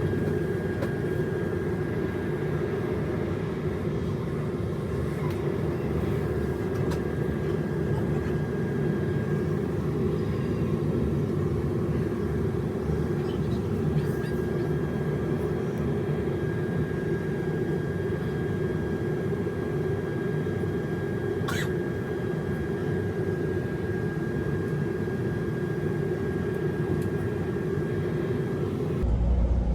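Steady rumble of a moving passenger train heard from inside the coach, with a faint steady whine above it and one brief click about two-thirds of the way through.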